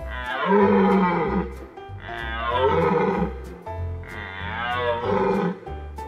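A deer calling three times, each call a drawn-out cry of about a second and a half with wavering pitch, over light background music with a steady beat.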